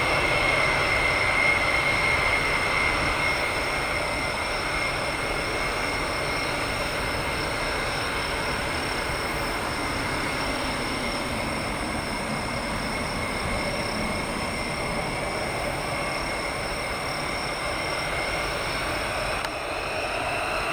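Jet engines of a Boeing E-8 running steadily: an even rushing noise with a thin high whine that fades slowly, and a lower tone sliding down midway.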